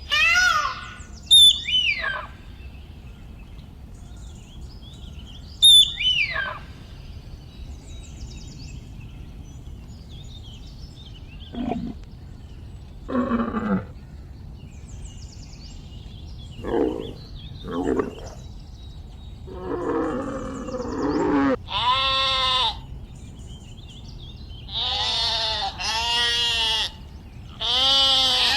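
A series of separate animal calls, one after another: short high calls that fall sharply in pitch near the start, a few lower calls in the middle, and longer quavering calls in the last several seconds.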